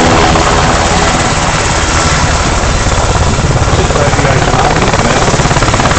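Black Hawk helicopter running loud and steady, its rotor blades beating fast and evenly over the turbine engines.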